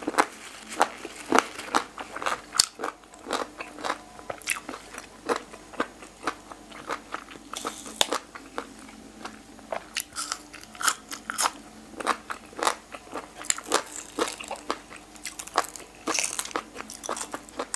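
Chewing of boiled pig's ear, the cartilage crunching in many sharp, irregular crunches.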